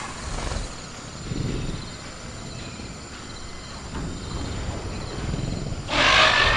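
Movie-style velociraptor creature sound effect: low rumbling growls, then a loud shrieking roar about six seconds in, over faint jungle cricket ambience.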